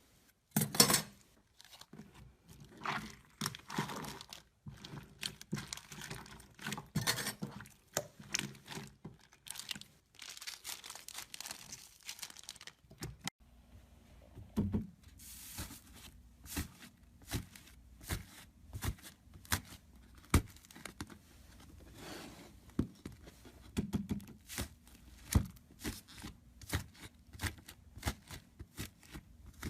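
Slime being squeezed and stretched by hand, giving off irregular crackling pops and clicks.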